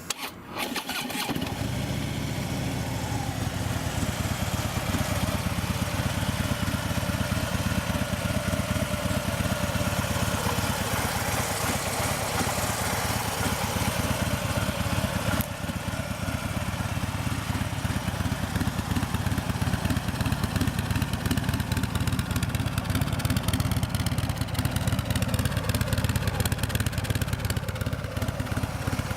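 A 2016 Harley-Davidson Ultra Limited Low's 103-cubic-inch fuel-injected V-twin is started about a second in, then settles into a steady idle.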